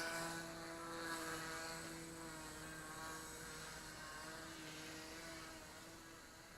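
Motor and propeller of a radio-controlled foam model airplane in flight, buzzing steadily with its pitch wavering slightly, and getting fainter near the end.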